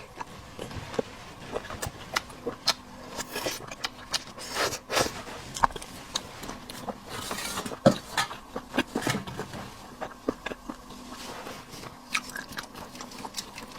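Close-up eating sounds: irregular crunches, clicks and scrapes of a person biting, chewing and handling seafood.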